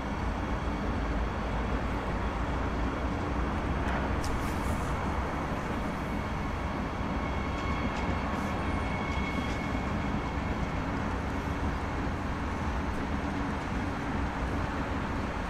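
A red DB Class 442 (Talent 2) electric multiple unit rolling past on the tracks: a steady rumble of wheels on rail, with a faint high squeal about eight seconds in.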